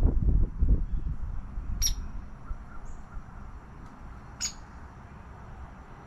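A low rumble of wind on the microphone fades away in the first second. A bird then gives two short, sharp calls about two and a half seconds apart.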